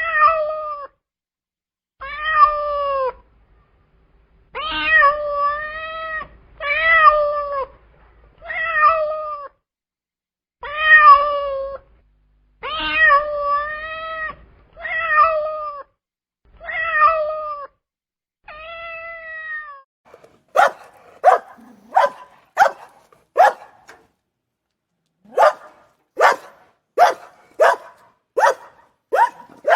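A domestic cat meowing over and over, about a dozen drawn-out meows, then, about twenty seconds in, a dog barking in short sharp barks, nearly two a second, with a brief pause in the middle.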